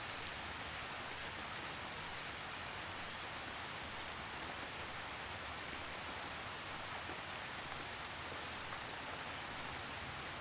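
Steady gentle rain, an even hiss of falling drops with a few faint individual drop ticks.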